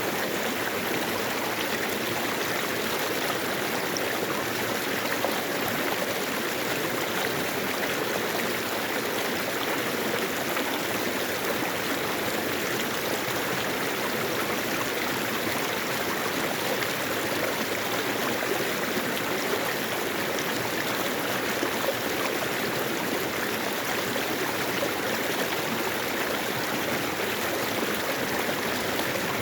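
Mountain valley stream, water rushing and splashing steadily over rocks.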